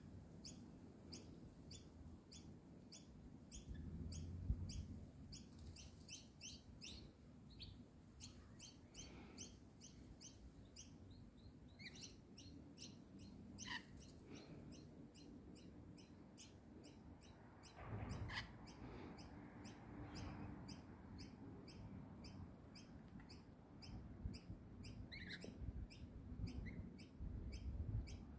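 Birds chirping: a steady run of short high chirps, about three a second, broken by a few louder, sharper calls, with a couple of low rumbles in the background.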